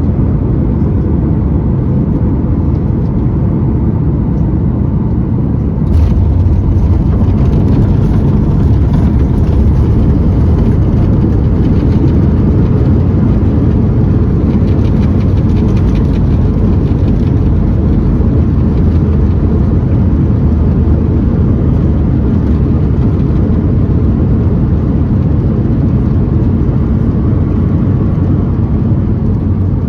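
Jet airliner noise heard from inside a Boeing 737-9 MAX: a steady, loud rumble and rush of engines and airflow. About six seconds in there is a sudden thump, after which the low rumble is louder.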